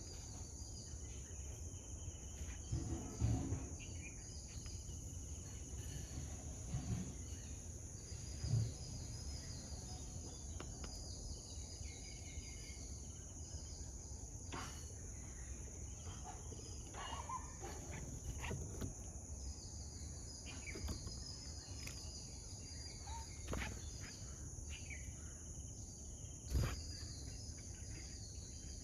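Outdoor tropical garden ambience: insects droning on a steady high pitch, with scattered short bird chirps. A few dull thumps stand out as the loudest moments, about three, seven and eight seconds in and again near the end.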